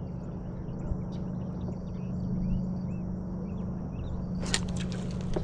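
Outdoor ambience: a steady low hum with short chirping bird calls and a thin high steady buzz over it. About a second before the end, a burst of sharp clicks and knocks.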